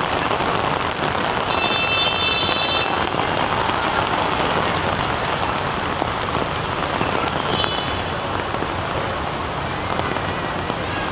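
Heavy rain falling steadily in a dense, even hiss. A short high-pitched tone cuts through about two seconds in, and a fainter one near the middle.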